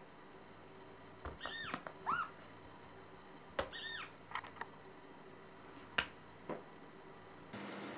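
Cat mewing: three short, high-pitched mews that rise and fall in pitch, two close together about a second and a half in and a third near four seconds, followed by a few sharp clicks.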